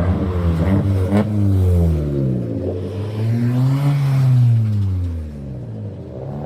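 A car engine, loud, its pitch sinking over the first couple of seconds, then climbing to a peak about four seconds in and dropping away again: one rev or burst of acceleration.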